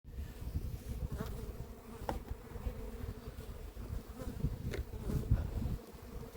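Honeybees buzzing, a steady hum, with a few sharp knocks or clicks from handling.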